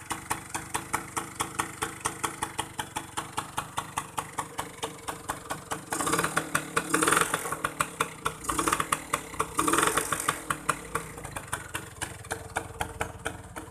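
Yamaha 75 two-stroke motorcycle engine idling with an even beat of exhaust pops, revved up briefly a few times around the middle before settling back to idle.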